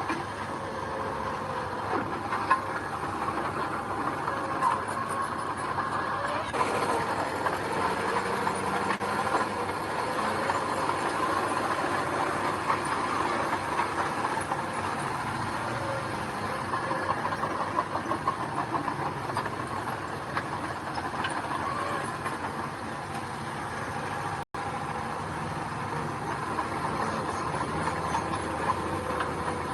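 Small crawler bulldozer running under steady load, its engine drone overlaid with rapid clattering from the steel tracks. A brief cut in the sound comes about 24 seconds in.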